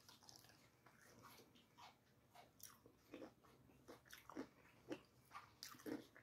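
Faint chewing of a crispy fried chicken wing: a bite at the start, then irregular soft mouth clicks and smacks, a little stronger near the end.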